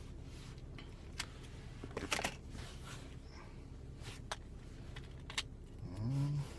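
Scattered light clicks and plastic crinkles from handling a freshly cut-open blister pack holding a CR1632 lithium coin-cell battery, with a short cluster of them about two seconds in. A brief low rising hum near the end.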